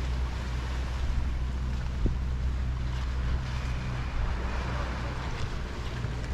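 Harbor shore ambience: small waves washing, over a steady low rumble, with a single short knock about two seconds in.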